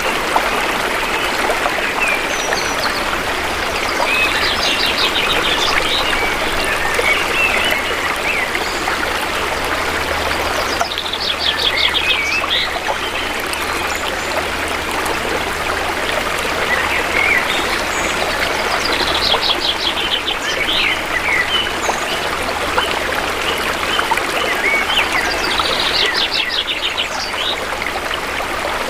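Shallow river water flowing in a steady rush, with forest birds singing over it: a fast trilled phrase comes back four times, about every seven or eight seconds, among scattered chirps.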